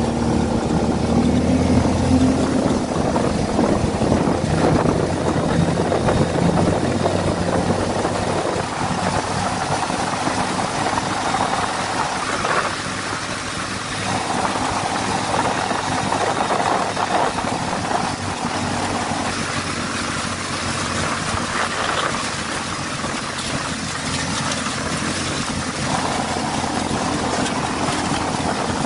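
A 260 cc buggy's engine running, its pitch shifting up and down as the revs change.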